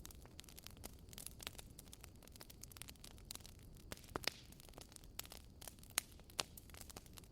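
Wood fire crackling: irregular sharp pops and snaps, the loudest a little after four seconds in and again about six seconds in, over a faint low rumble of the burning logs.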